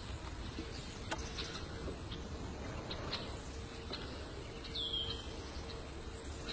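Birds calling over a steady low rumble of outdoor background noise, with one short falling whistle about five seconds in and a few faint chirps.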